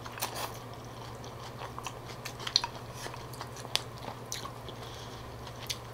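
Close-miked chewing of a mouthful of pho rice noodles and beef: scattered soft mouth clicks and wet smacks, with a short slurp at the very start. A faint steady low hum runs underneath.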